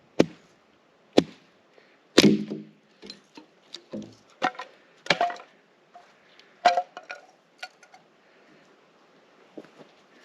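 Wood being struck or broken: a series of sharp knocks and cracks at irregular intervals, the loudest a little over two seconds in, some with a brief ringing tone.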